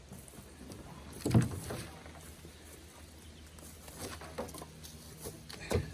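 Firewood pieces knocking together as they are tossed and stacked: one loud thump about a second in, then several lighter knocks near the end.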